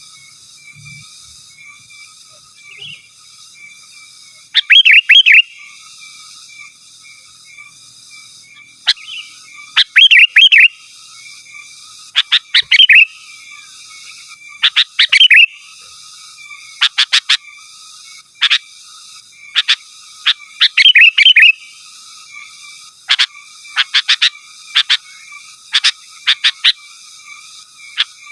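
Sooty-headed bulbul (kutilang) singing loud, short phrases of quick bubbly notes, repeated every second or two, over a faint steady background trill.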